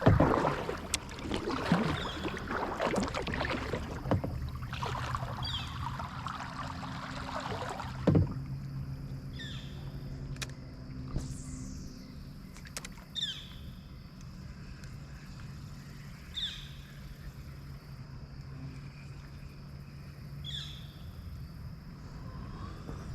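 A steady low engine drone, with water sloshing and splashing in the first several seconds and one sharp knock about eight seconds in. Short high chirps come every few seconds over the drone.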